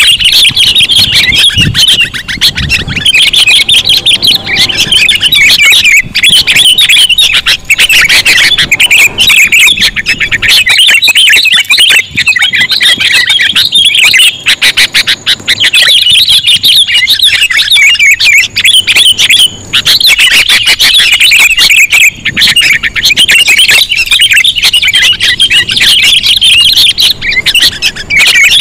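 Sooty-headed bulbuls (kutilang) chattering loudly and without pause, a dense run of rapid chirps. This is a bird-trapping lure call recording.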